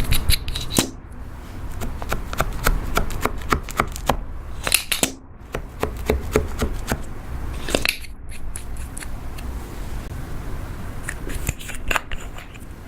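Butter slime being worked by hand, giving a run of irregular sticky clicks and small pops, with louder clusters now and then.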